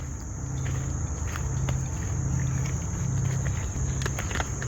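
Crickets or other insects chirring in one steady, high-pitched drone, with scattered light footsteps along a trail.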